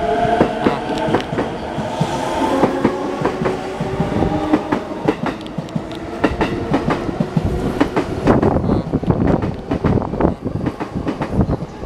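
E233-1000 series electric commuter train running out of the station: its traction motors whine at the start, while the wheels clack over rail joints, growing denser and louder from about halfway through.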